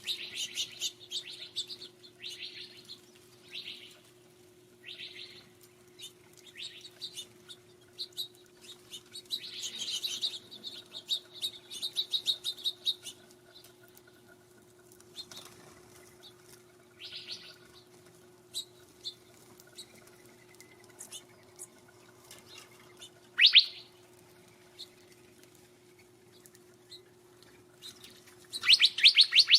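Small birds at a feeder chirping in short bursts and rapid chatters, with one sharp loud call about 23 seconds in and a fast run of chirps near the end. A faint steady low hum lies underneath.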